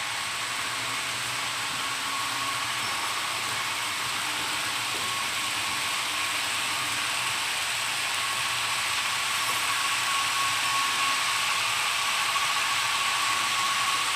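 HO-scale model trains running on the layout: a steady electric-motor whir and rolling hiss, with a thin steady whine, getting slightly louder toward the end.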